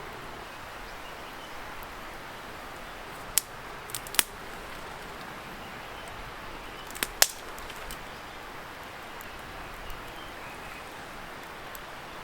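Wood bonfire crackling, with sharp pops: a few around a third of the way in, a loud pair a little past halfway, and a small one later. Under it runs a steady hiss from a distant river.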